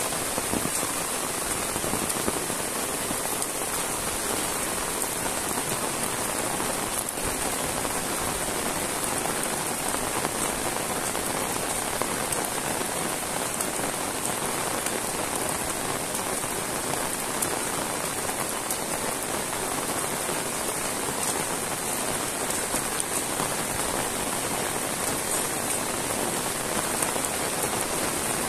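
Heavy rain falling steadily on a wet paved road, standing water and leaves: a dense, even hiss of drops.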